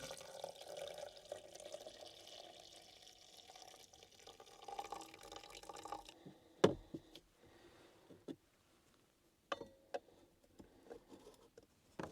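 Liquid pouring and trickling into a cup for about six seconds, followed by a few light clicks and knocks from handling things.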